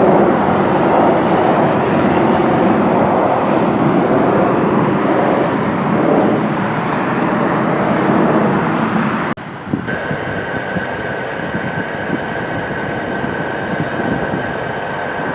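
Jet airliner engine noise, loud and steady, then cutting off abruptly about nine seconds in to a quieter rumble with a steady high whine.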